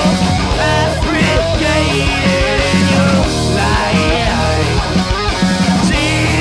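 A punk/grunge rock band playing live, with distorted electric guitar, bass and drums.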